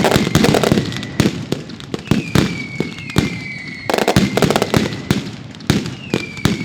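A professional fireworks display: shells bursting in dense clusters of sharp bangs and crackle near the start and again about four seconds in, with several whistles that glide slightly down in pitch between the bursts.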